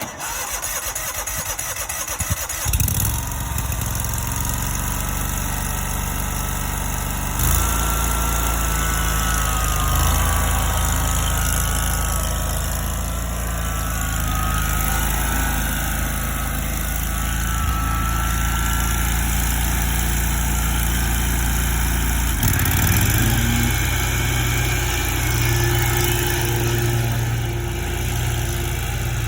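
Toro Grandstand zero-turn mower's engine cranking, then catching and starting about two and a half seconds in, then running steadily. Its speed steps up about seven seconds in, and its pitch changes again about three quarters of the way through.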